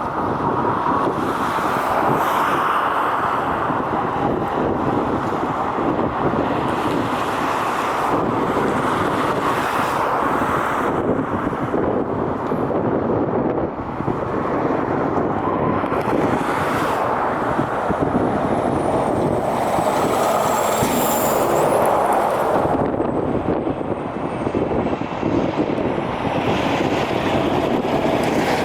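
Jet airliner engine noise: a loud, steady roar with a thin high whine that slides down in pitch about two-thirds of the way through.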